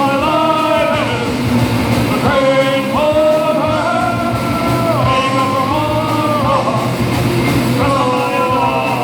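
Live rock band playing, with a singer holding long sung notes in three stretches, about 1, 3.5 and 1 seconds long.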